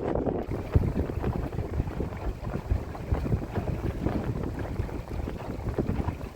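Wind buffeting the microphone over the rush of water along a sailing boat's hull, in irregular gusts.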